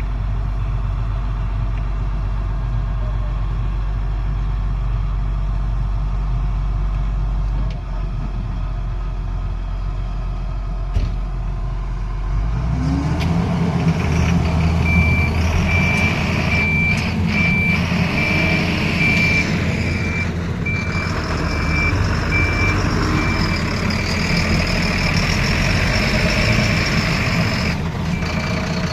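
Tata Hitachi excavator's diesel engine running, stepping up to higher revs and louder about halfway through. A steady warning alarm beeps about once a second through most of the second half.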